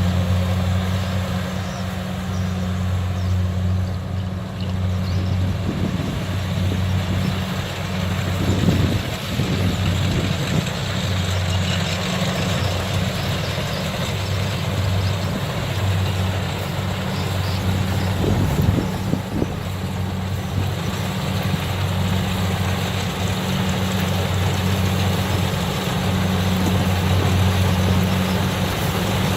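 Kubota DC60 combine harvester's diesel engine running steadily under load with the clatter and rush of its cutting and threshing machinery, working through lodged rice. A low, even drone with a couple of brief swells.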